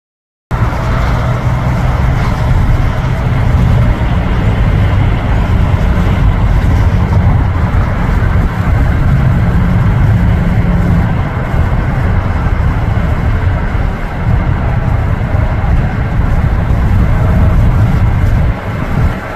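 Loud, steady rumble of jet airliner engines, starting abruptly about half a second in.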